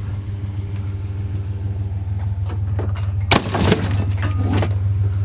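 Pickup truck engine running steadily, with a few clattering knocks and rattles of scrap being handled about halfway through, the loudest a little past the middle.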